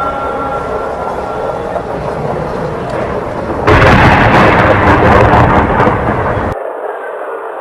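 Thunderstorm with a steady hiss of rain. About three and a half seconds in, a sudden loud thunderclap from a lightning strike rumbles for nearly three seconds, then cuts off abruptly, leaving a quieter rushing hiss.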